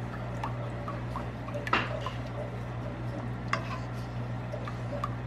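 Kitchen utensils and dishes clinking and knocking against each other in scattered sharp clicks, the loudest about two seconds in and again about three and a half seconds in, over a steady low hum.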